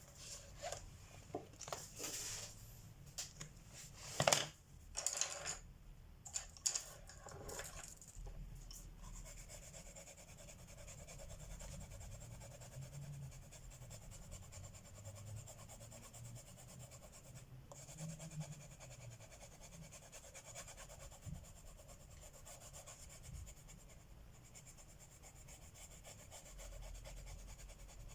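Wooden colored pencils clicking and knocking several times as they are picked up and set down, then a pencil scratching steadily on paper while coloring in.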